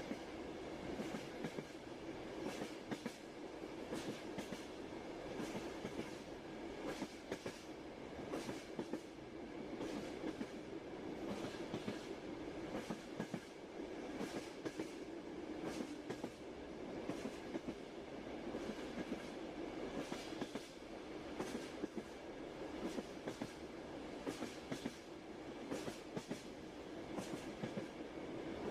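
Train rolling along at steady speed: a continuous rumble with the clickety-clack of the wheels over rail joints, sharp clicks coming in quick groups every second or so.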